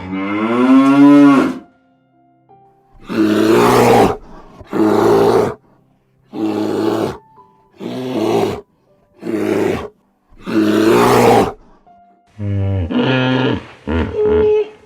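Loud animal calls: a cow's long moo, rising in pitch, that ends about a second and a half in, followed by a series of about six hoarse calls of a second or less each, then shorter calls in quick succession near the end.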